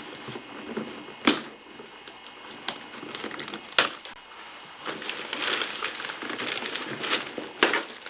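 Wrapping paper crinkling and rustling as a present is unwrapped, with three sharp clicks or knocks: about a second in, near four seconds and near the end.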